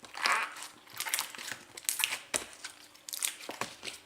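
Glossy bubblegum slime being squeezed and stretched by hand, giving irregular bursts of crackling and popping squelches, about four clusters in a few seconds.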